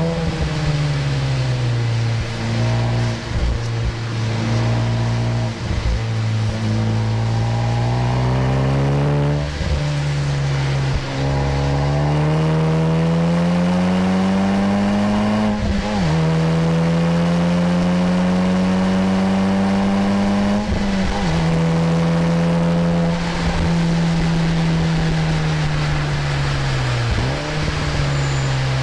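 Honda Civic Type R FK8's turbocharged 2.0-litre four-cylinder heard from inside the cabin under hard driving. The pitch climbs steadily for several seconds, drops sharply just past halfway at an upshift, climbs again, then falls away as the car slows. A steady hiss of spray from the wet road runs underneath.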